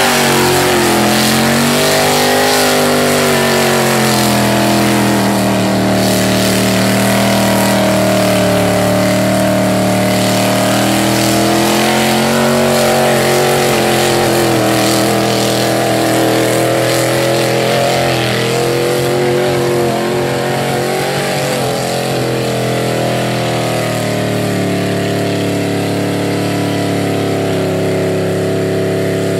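Mud-bog truck engine running hard, the revs rising and falling over and over. Near the end the engine settles to a steadier, slightly lower pitch.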